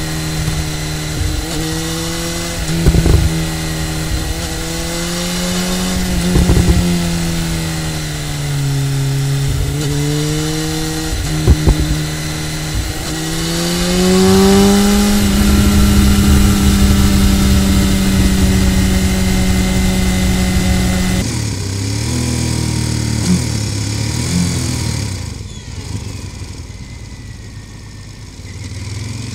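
BMW S1000R inline-four engine running hard on a twisty road, its pitch climbing and dropping with throttle and gear changes, with a few sharp cracks along the way. About 21 seconds in the sound cuts to a deeper motorcycle engine note that drops back near the end as the bikes slow.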